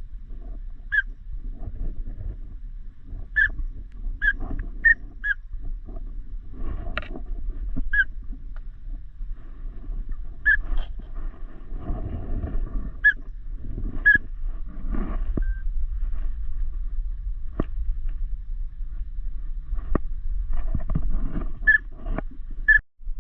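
Short whistled duck calls, one brief note every second or two, over a steady low rumble.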